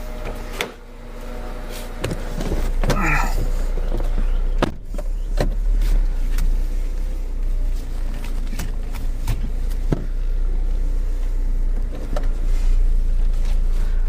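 A 2000 Honda Civic's engine idling with a steady low rumble, heard from the driver's seat, over a run of knocks and clicks from a person settling in and handling the car's controls, with a brief squeal about three seconds in.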